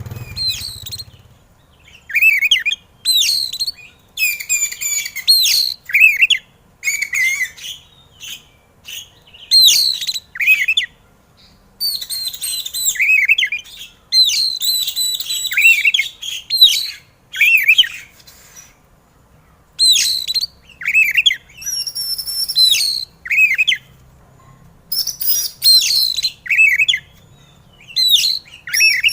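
Oriental magpie-robin (kacer) singing in agitated, heated bursts: quick runs of whistled, gliding and chattering phrases, each a second or two long, broken by short pauses.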